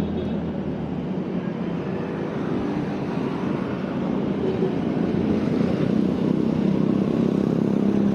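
Steady road traffic noise, motor vehicle engines running along the road, with a low engine hum that gets stronger in the second half.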